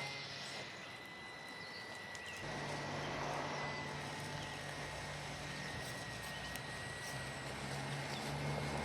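Traxxas TRX-4M Bronco RC crawler's 87-turn brushed motor and gears running with a steady whine as it drives in sand, growing louder about two and a half seconds in.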